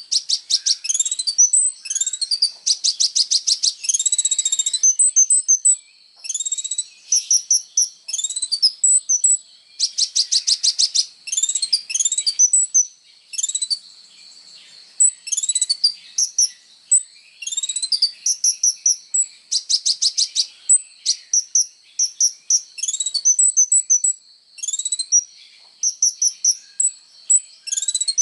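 Kolibri ninja sunbird singing steadily: quick high chirps and sweeping notes broken by fast buzzing trills every several seconds, with a few brief pauses.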